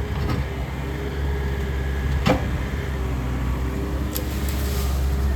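Takeuchi excavator's diesel engine running steadily, with a single sharp knock about two seconds in.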